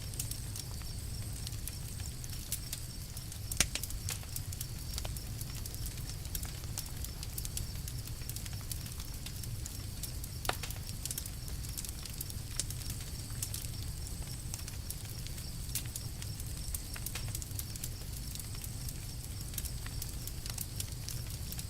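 Campfire crackling: scattered irregular pops and snaps over a steady low rumble, with two louder pops about three and a half seconds and ten seconds in.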